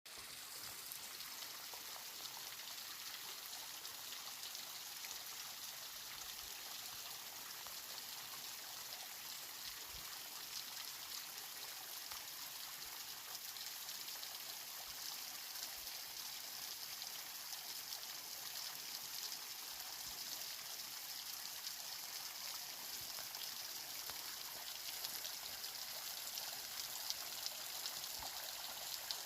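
Mountain waterfall: water rushing steadily over rocks, an even, high-pitched hiss with a few small splashes near the end.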